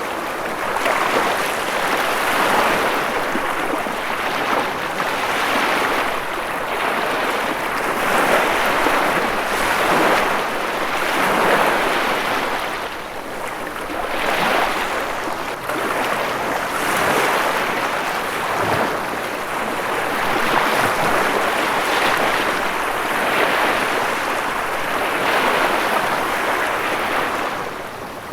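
Ocean surf: a continuous rush of breaking waves that swells and eases every two to three seconds.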